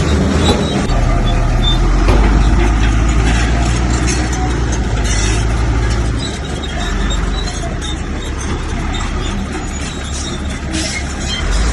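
Bulldozer's diesel engine running hard under load, with scattered knocks and clatter. The engine drone eases off about six seconds in.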